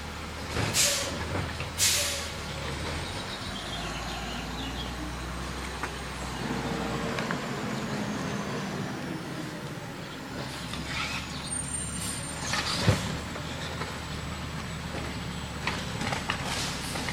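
Garbage truck's engine running, with short air-brake hisses: two close together near the start and a sharper one past the middle.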